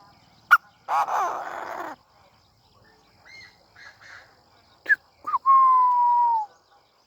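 Chinese francolin calling: a sharp note, a harsh grating call of about a second, a few soft chirps, then two quick sharp notes and a long whistled note that falls slightly in pitch.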